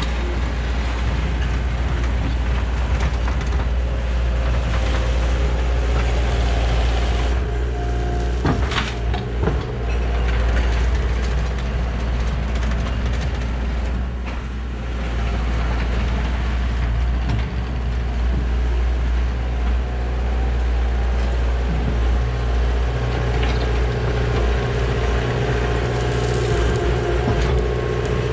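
Heavy diesel earthmoving machine running under load while grading dirt, its engine a steady low drone. A few sharp clanks come about eight to nine seconds in, and a steady hydraulic whine rises near the end.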